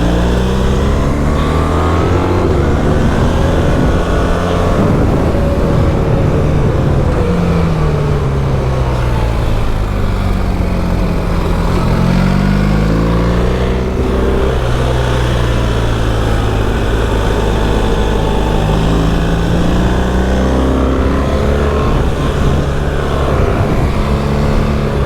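BMW R1300GS boxer-twin engine heard on board at speed on a race track, its note rising and falling repeatedly as the rider accelerates out of corners and rolls off into the next, with a heavy rumble of wind underneath.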